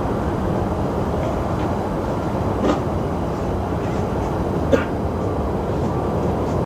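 Steady low rumbling background noise, with two faint clicks partway through.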